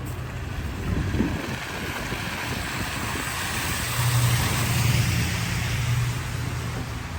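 A vehicle passing on a wet, slushy street: tyre hiss that swells to a peak about four to five seconds in and then eases, over a low engine hum.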